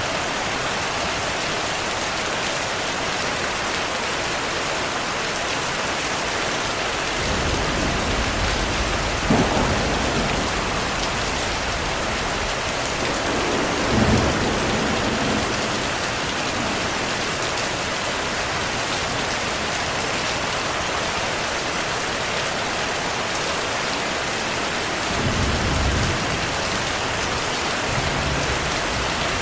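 Heavy rain falling steadily, with several rolls of thunder: a rumble building from about a quarter of the way in to a sharper clap, a second clap about halfway through, and shorter low rumbles near the end.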